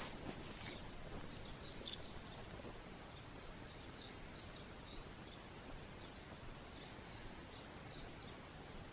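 Faint birdsong: short, high chirps from small birds, a couple a second, over a soft background hiss.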